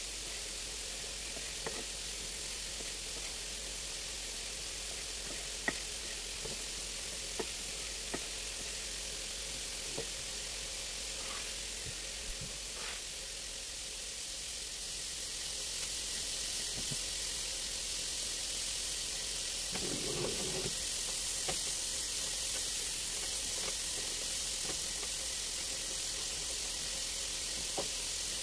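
Food sizzling in a frying pan, a steady hiss that grows louder about halfway through, with a few scattered light knocks.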